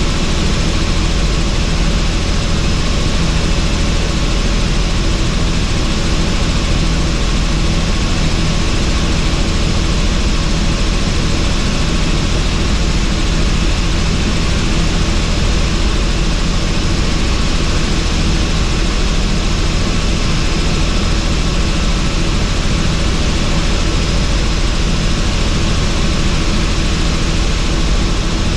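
Helicopter in flight with its doors off: steady rotor and engine noise mixed with rushing wind, unchanging throughout.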